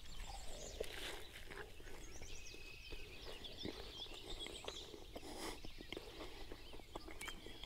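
Faint birds chirping and calling, with a few soft scattered clicks.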